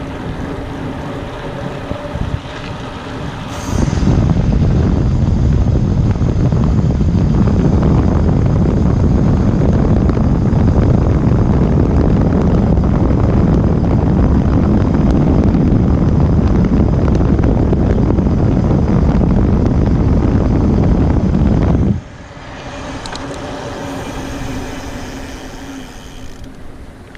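Mountain bike riding fast on a forest trail: wind buffeting the helmet or bike camera's microphone over tyre rumble. It jumps to a loud, low rush about four seconds in and drops back to quieter rolling noise with a faint steady hum about 22 seconds in.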